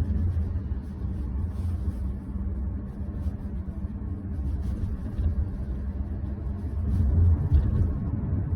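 Steady low road and tyre rumble of a car driving, heard from inside the cabin, swelling slightly about seven seconds in.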